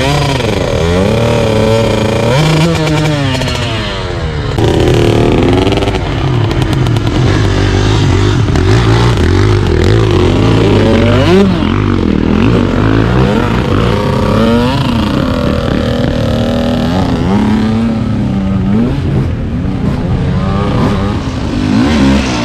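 Two-stroke enduro dirt bike engine revving up and down over and over, the pitch rising and falling every second or two as the throttle is worked on a hard trail section.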